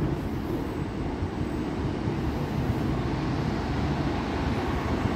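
Class 150 Sprinter diesel multiple unit pulling into the platform: a steady low rumble of its engines and wheels on the rails, growing slightly louder as it draws near.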